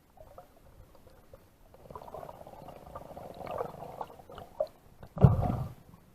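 Underwater water noise picked up by a head-mounted action camera in its waterproof housing: a stretch of muffled noise with small clicks, then a short louder burst about five seconds in.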